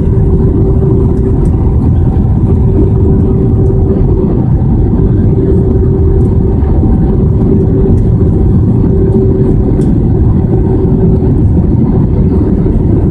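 Airbus A320 cabin noise in flight: steady engine and airflow noise with a constant hum running through it.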